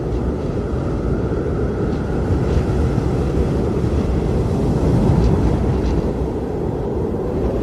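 Strong blizzard wind blowing steadily with a deep rumble and a thin, wavering howl above it.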